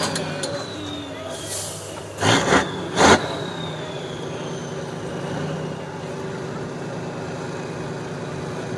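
Heavy truck engine running steadily, with a high whine that slowly falls in pitch. Three short, loud bursts of hiss-like noise come between about one and a half and three seconds in.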